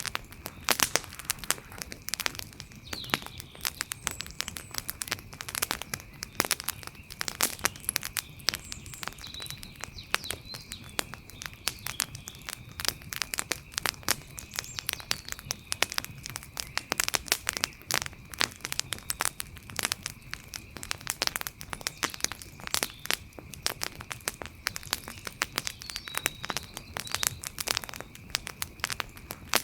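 Wood fire crackling, with dense, irregular snaps and pops over a soft bed of flame noise. A faint steady high tone and a few faint chirps sit in the background.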